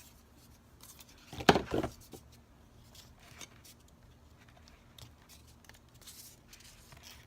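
Handling of craft supplies on a work desk: one loud short rustle or knock about one and a half seconds in, then scattered small clicks and taps.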